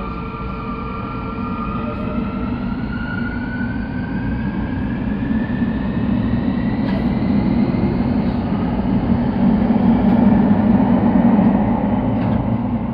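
Sotetsu Line electric train heard from inside the carriage as it picks up speed: a whine from the motor drive rises slowly in pitch over a steady rumble of wheels on rail that grows louder.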